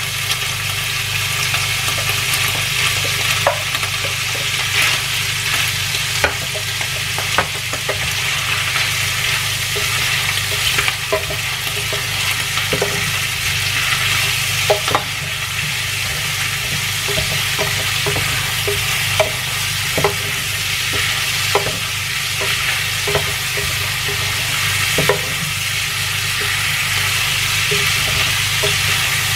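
Pieces of boiled octopus frying in hot oil in a stainless-steel pan: a steady sizzle, broken by irregular knocks and scrapes of a wooden spatula stirring them about once a second.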